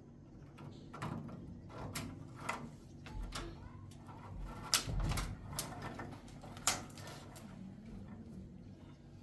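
Irregular knocks and clicks of things being handled, with the sharpest two about halfway and two thirds of the way through.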